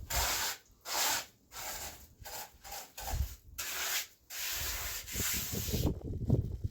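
A hand tool scraping in quick back-and-forth strokes, about seven short rasping strokes and then one longer, drawn-out stroke near the end.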